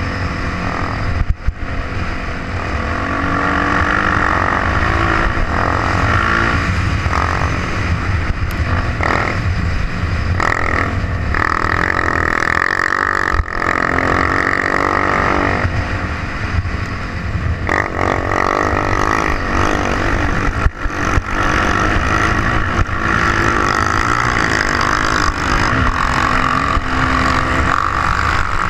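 Trail motorcycle engine running under way, its note rising and falling as the rider speeds up and eases off.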